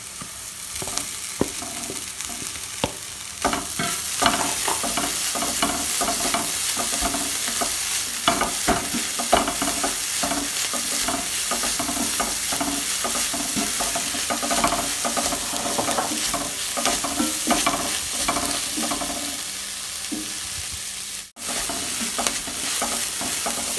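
Minced cooked chicken and onion masala frying in a pan, stirred with a wooden spatula: a steady sizzle with the spatula's scrapes and knocks against the pan. The sizzle grows louder a few seconds in, and the sound cuts out for an instant near the end.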